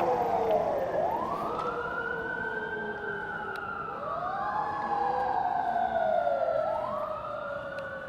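Fire truck siren wailing. Its pitch sweeps up quickly and falls away slowly, over and over, with two wails overlapping out of step.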